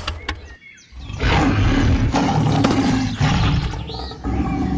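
A loud, rough roar lasting about three seconds, starting about a second in.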